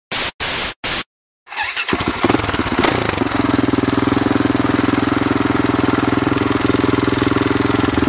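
Three short bursts of static hiss, then a KTM LC4 single-cylinder supermoto engine catches about one and a half seconds in and settles into steady running.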